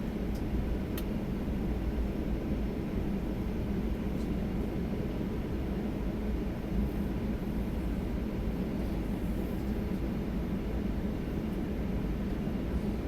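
Steady low cabin rumble inside a Boeing 737-800 on the ground after landing, from its idling CFM56 engines and cabin air, with a faint steady hum and a couple of light clicks about a second in.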